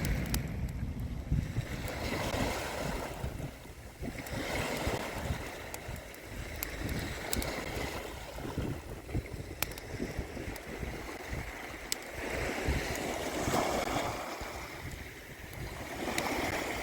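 Small waves washing onto the beach, swelling and falling back every few seconds, with wind rumbling on the microphone. Scattered faint crackles from the campfire come through.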